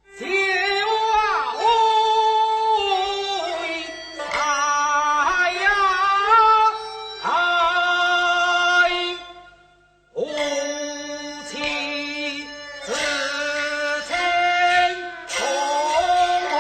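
Teochew opera music: an ornamented melodic line of held notes with pitch slides, broken by two brief pauses and punctuated by a few sharp strikes.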